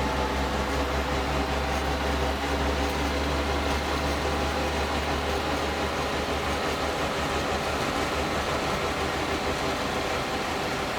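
A Suzuki Jimny's freshly overhauled engine running steadily during break-in, with a strong low hum that eases after the first few seconds.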